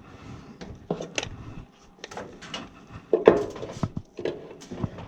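Irregular clicks and knocks of tools and wiring being handled, with a louder clatter a little past three seconds in.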